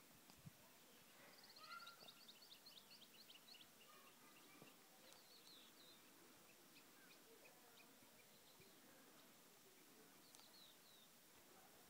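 Faint birds chirping over a very quiet outdoor background: a quick run of short high chirps in the first few seconds, then brief calls about five seconds in and again near the end.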